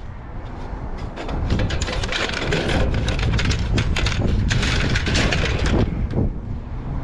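Debris being rummaged through and shifted, with dense crunching and clattering and many sharp cracks from about one to six seconds in, over a steady low rumble.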